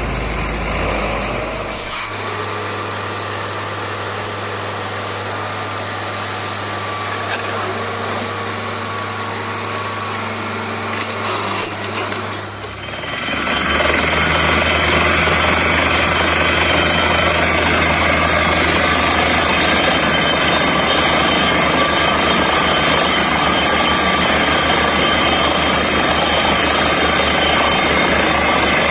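Borewell drilling rig running, its diesel engine and air compressor keeping up a steady hum. The engine note shifts about two seconds in. About thirteen seconds in the sound dips briefly, then grows louder, with a strong rushing hiss and a hammering rattle over a lower engine note, as air-powered drilling gets under way.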